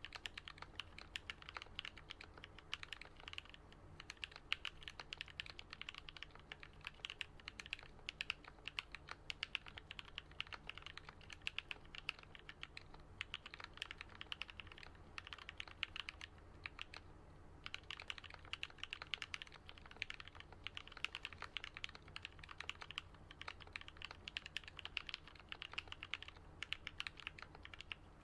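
Continuous typing on a Switch Couture Alice-layout mechanical keyboard fitted with lubed and filmed Gateron Yellow linear switches and Artifact Bloom BoW keycaps. A fast, steady run of keystrokes with a deep "thock", broken by a couple of brief pauses about halfway through.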